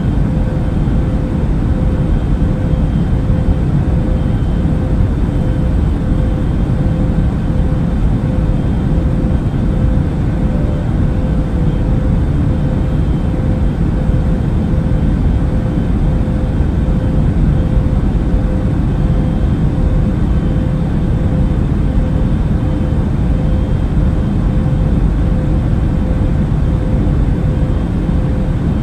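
Steady roar of an airliner cabin in flight, engine and airflow noise heavy in the low end, with a faint steady hum above it.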